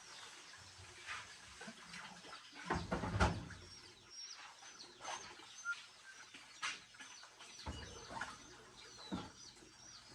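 Small birds chirping in short high calls throughout, with a few thuds or knocks, the loudest about three seconds in.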